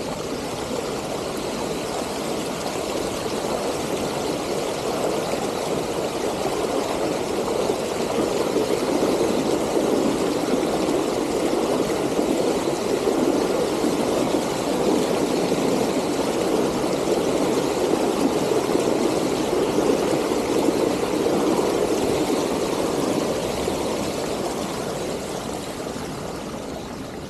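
Steady rush of flowing floodwater at a flooded trail crossing. It swells through the middle and fades near the end.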